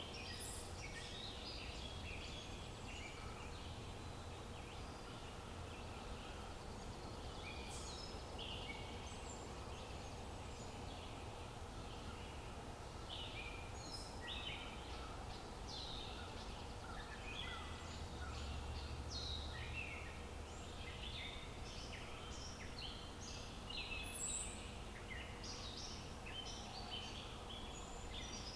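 Several birds chirping and singing: short, quick calls overlapping one another throughout, over a steady low outdoor rumble.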